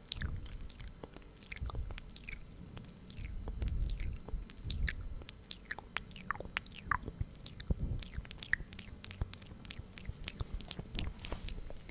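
Close-miked wet mouth sounds: lips coated in thick lip gloss smacking and parting, a dense, irregular run of sticky clicks and pops.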